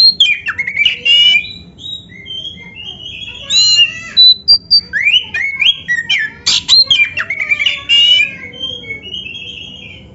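Oriental magpie-robin (kacer) singing a loud, varied song: quick whistled glides up and down, short trills and sharp clicking notes, with hardly a pause.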